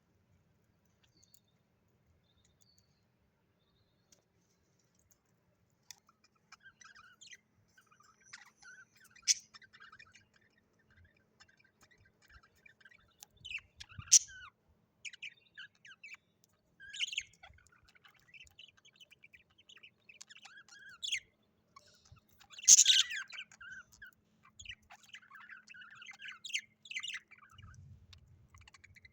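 Budgerigars chirping and chattering, starting about six seconds in after a near-quiet stretch, with a few louder, sharp chirps scattered through.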